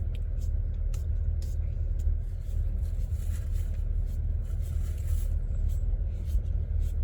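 Steady low vehicle rumble inside the van, with scattered faint clicks and taps on top.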